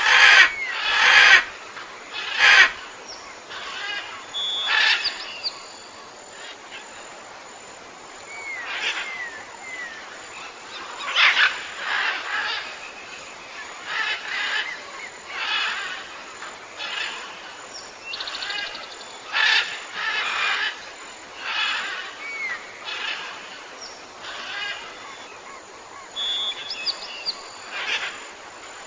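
Birds calling in a natural setting: short scratchy calls repeat every second or two, with a few brief whistled notes between them.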